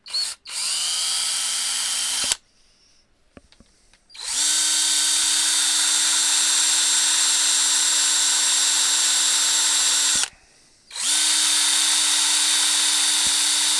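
Power drill running in three bursts, a short one and then two long ones, each spinning up quickly to a steady whine, with a grinding bit worked against a rivet head to wear it away.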